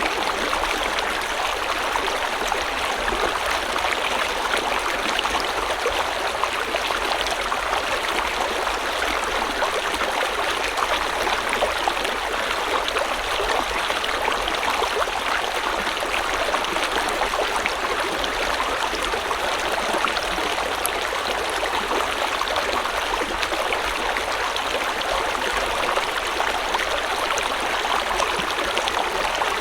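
River or stream water flowing steadily, a constant rushing and burbling with no change.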